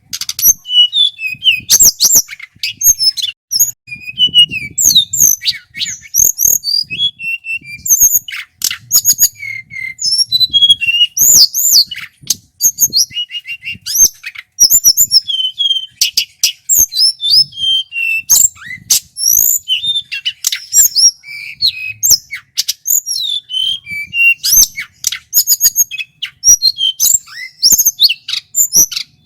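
Male tledekan gunung singing a long, loud, continuous song of rapid chirps, whistled glides and trills, with barely a pause.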